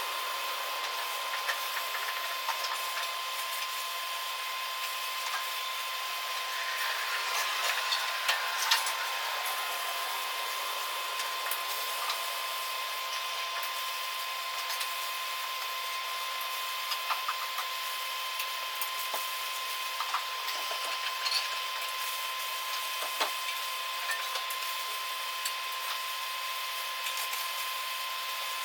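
Steady hiss and hum of machinery in a truck-bed welding and fabrication shop, holding one tone throughout, with scattered short clicks and taps.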